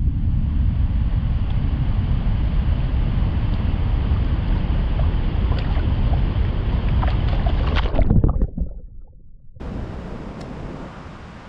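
Steady roar of rushing water from a waterfall, loudest in the low end, with a louder surge about 8 seconds in before it cuts off suddenly; after a short gap a quieter rush of water and wind continues.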